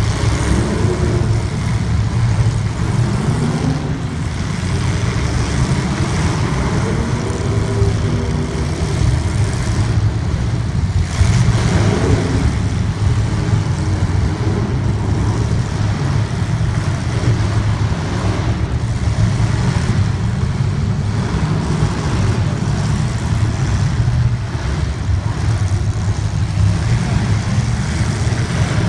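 Race car engine running hard and revving up and down, over a heavy rumble of noise.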